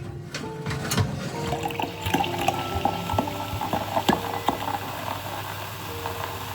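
Water running, with a few sharp clicks over it.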